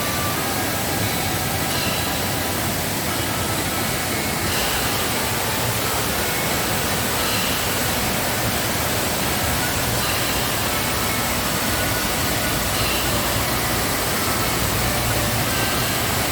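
Waterfall in full rainy-season flow: a steady, loud rush of falling water.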